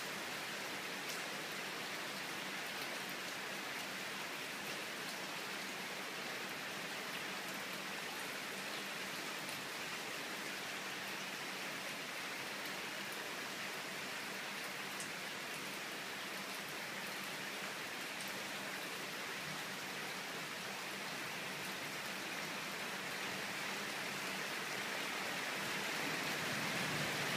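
Heavy rain of a sudden summer cloudburst, a Tokyo 'guerrilla rainstorm', pouring down steadily as a dense, even hiss of countless drops. It swells a little louder near the end.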